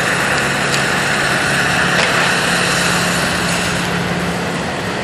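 Diesel engine of heavy demolition machinery running steadily, with a couple of faint knocks.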